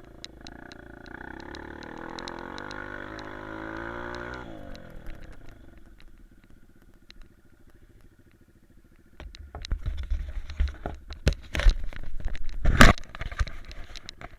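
Honda CRF150F's single-cylinder four-stroke engine running under throttle, then falling back toward idle about five seconds in. Later a loud low buffeting rumble with scattered knocks takes over, with one sharp thump near the end.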